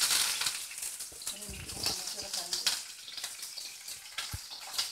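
Shallots, curry leaves and green chillies sizzling in hot oil in a pan during tempering. The sizzle is loudest right at the start and carries on steadily, with a few light knocks.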